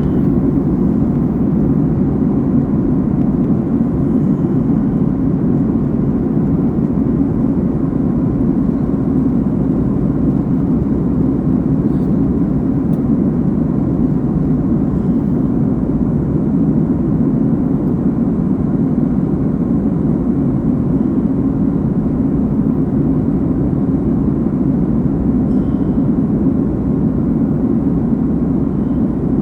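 Steady, low, even cabin noise of an airliner in flight: engine and airflow noise heard from inside the passenger cabin.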